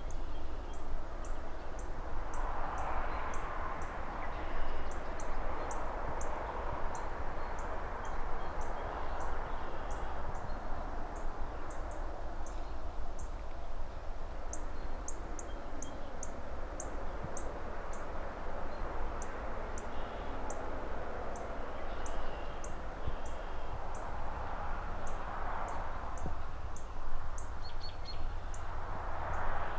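City ambience: a steady low traffic rumble under a wash of rustling trees and passing cars that swells a few times. Over it a bird keeps up quick, high, repeated chirps, about two or three a second, with a few fainter calls.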